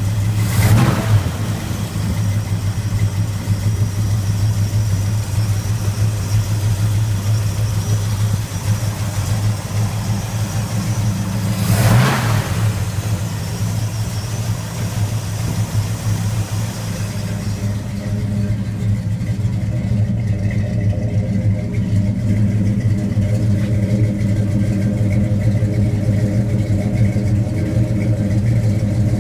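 1966 Chevelle V8 engine idling steadily, with two short sharp bursts, about half a second in and about twelve seconds in. From about eighteen seconds on it is heard at the twin tailpipes and sounds duller and deeper.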